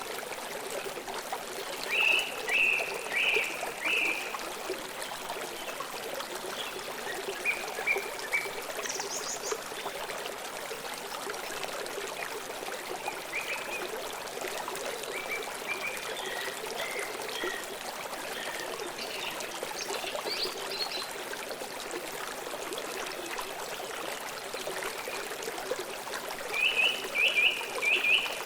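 Stream water flowing steadily, with birds chirping over it: a quick run of short notes about two seconds in and again near the end, and a few scattered higher chirps between.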